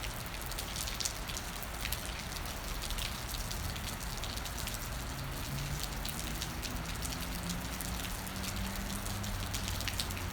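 Steady rain falling, with many individual drops ticking sharply close by. A faint low hum comes in about halfway through.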